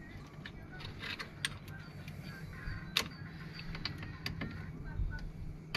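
Scattered metallic clicks and knocks of hand tools and parts being handled during brake pad work on a van's brake caliper, the sharpest knock about three seconds in, over a low steady hum.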